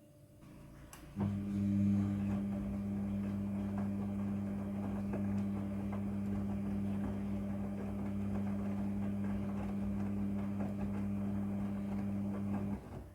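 Midea front-loading washing machine humming steadily, switching on about a second in and cutting off suddenly near the end.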